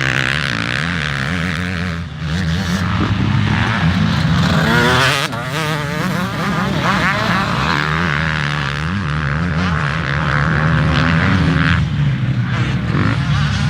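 Motocross dirt bike engines running, revving up and down repeatedly, loudest around the middle.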